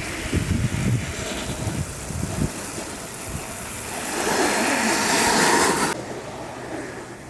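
Wind buffeting the microphone in gusts. A broad rushing hiss then swells and cuts off suddenly about six seconds in.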